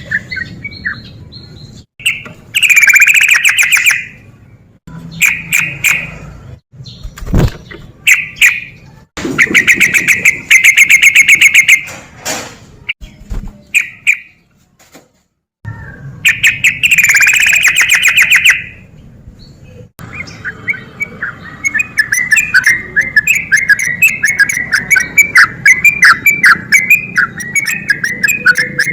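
Yellow-vented bulbul singing loudly: bursts of fast bubbling, chattering phrases separated by short pauses. From about two-thirds of the way through, they become an unbroken run of quick notes.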